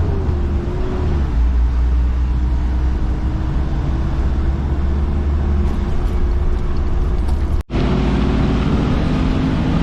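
Motor vehicle running on the road: a steady low engine drone and road noise, with a steady whine above it. The sound cuts out for an instant about three quarters of the way through.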